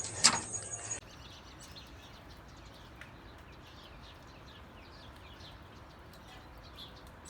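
Faint birds chirping outdoors: many short, falling chirps repeated over a quiet hiss, after a sudden cut about a second in.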